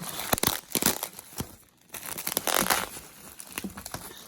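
Plastic packing wrap crinkling and rustling in irregular bursts as it is pulled off a framed picture, with a brief pause about halfway through.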